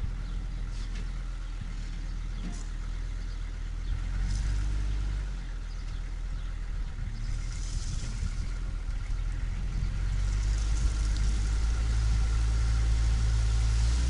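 Farm tractor engine running steadily with a low hum, getting louder about ten seconds in.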